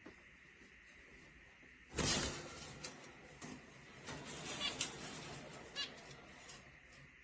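A burst of rustling about two seconds in, then scuffling noise in a pet bird cage, with a few short chirps from the pet birds.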